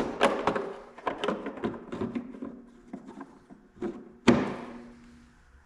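A run of light taps and knocks from objects being handled, then one loud thunk about four seconds in, followed by a short ringing tail.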